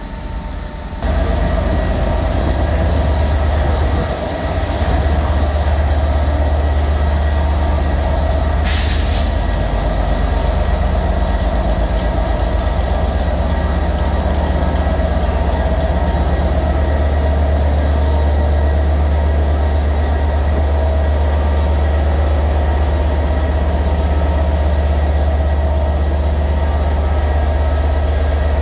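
A Class 67 diesel locomotive's V12 two-stroke engine running loud and steady, stepping up in level about a second in. A short hiss of air comes about nine seconds in.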